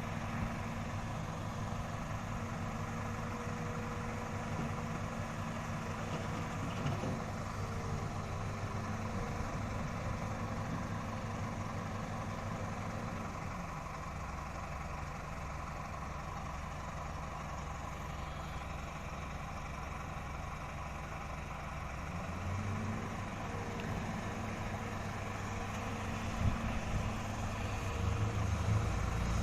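Truck engine running steadily. Its pitch drops about halfway through, stays lower for several seconds, then rises again near the end.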